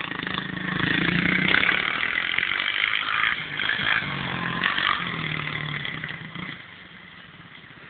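110cc dirt bike engine running and revving, its note rising and falling, then fading about six and a half seconds in.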